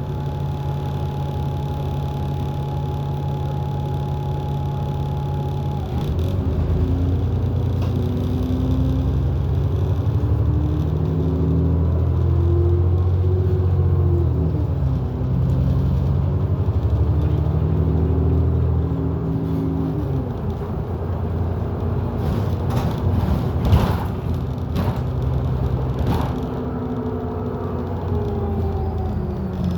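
Bus engine and drivetrain heard from on board: a steady hum with a thin held whine, then from about six seconds in the engine note rises and steps up as the bus pulls away, settling back after about twenty seconds. A few sharp knocks and rattles follow near the end.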